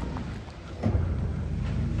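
A motor vehicle's engine rumbling low, growing sharply louder a little under a second in and staying strong.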